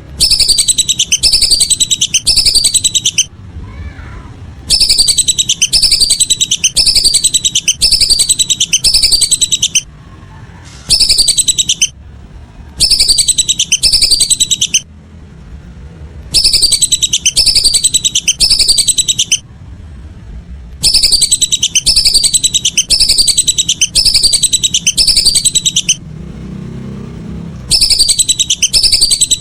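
Lesser whistling duck calls: rapid, high, falling whistles, about four or five a second, in loud phrases of one to four seconds separated by short pauses, repeating over and over.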